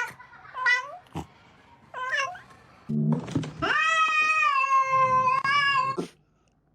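A cat meowing: three short meows, then one long drawn-out meow of about two seconds that cuts off suddenly.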